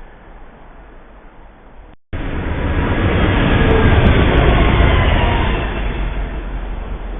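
Train passing close by: a loud rumble with rail and wheel noise that cuts in about two seconds in, peaks and slowly fades. Before it there is faint wind noise.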